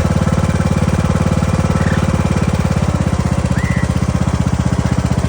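A small engine running steadily at idle, a fast even pulsing, with a couple of brief faint bird chirps about two and three and a half seconds in.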